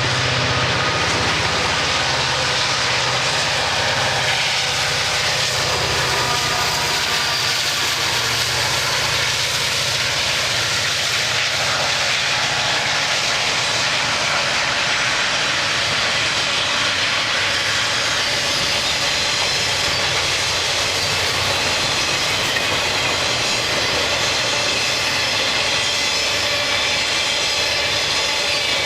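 A train running past without letup: a steady, loud rolling rush with fine whining tones over it. A low engine drone is heard in the first several seconds and then fades.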